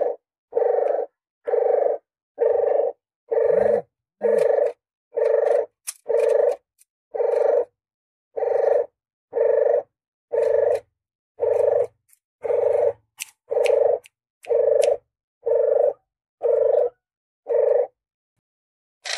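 Puter geni dove cooing, one low note repeated about once a second, with faint clicks between some notes.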